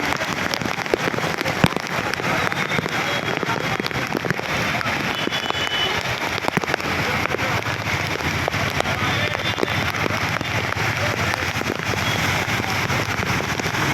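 Heavy monsoon rain falling steadily, a dense hiss with many small drop hits, and one sharper click about a second and a half in.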